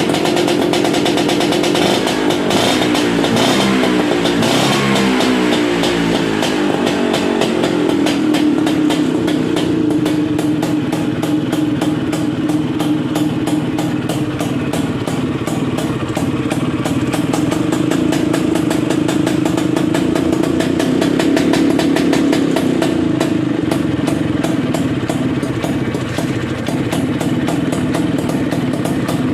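Vespa scooter engine running through a short racing exhaust that exits on the right. It is revved up and down a few times from about two seconds in, then settles into steady running from about eight seconds on.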